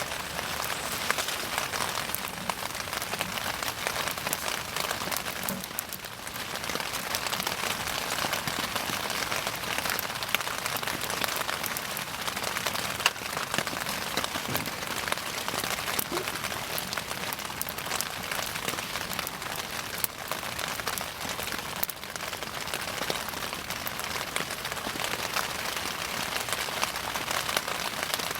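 Wood bonfire burning, with a dense steady crackle and frequent sharp pops, one louder pop about halfway through.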